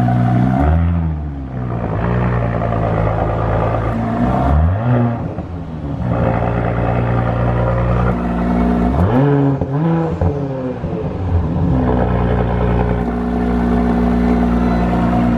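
2018 Audi SQ5's turbocharged V6 idling through an ABT exhaust, with throttle blips that rise and fall in pitch: one near the start, one around four seconds in, and a quick run of several revs about two-thirds of the way through.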